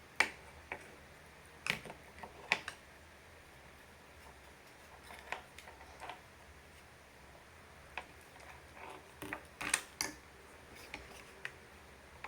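Small parts of a model airplane kit being handled and fitted together: irregular clicks, taps and knocks, about a dozen in all, with the sharpest near the start and a cluster of them about three quarters of the way through.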